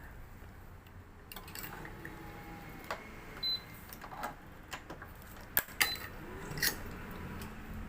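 Badminton racket being strung on an electric stringing machine: sharp clicks and knocks of clamps and string handling, with three short high beeps from the electronic tensioner.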